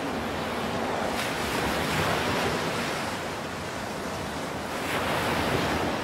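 Steady rushing noise of open sea and wind, swelling briefly twice.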